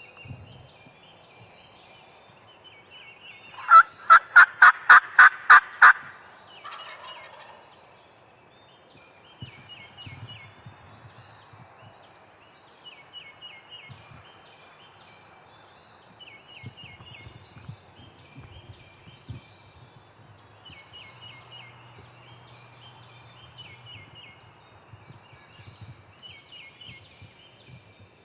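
A wild turkey gobbler gobbles once, a loud, fast rattling gobble of about eight pulses some four seconds in. Other birds sing in short repeated phrases throughout.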